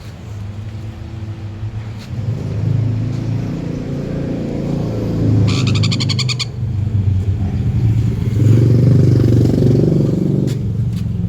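Motor vehicle engines running close by, a low rumble that builds and is loudest near the end. About halfway through there is a brief, rapid rattling of about a second.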